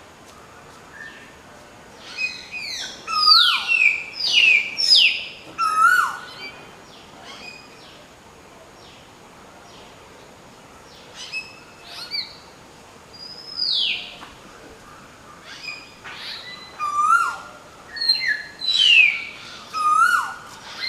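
Hill myna calling: loud, varied whistles and shrill notes that slide down in pitch, given in two bouts of rapid calls, the first a couple of seconds in and the second from about halfway on.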